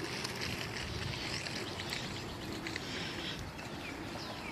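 Birds chirping: short high chirps, then near the end a few quick downward-sliding calls, over a steady hiss.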